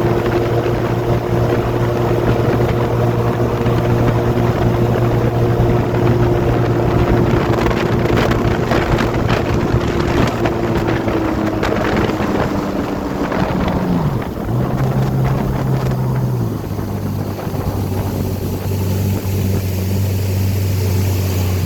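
Personal watercraft engine running at speed, then throttled back about two-thirds of the way through, its pitch falling to a lower, steady drone as the craft slows down.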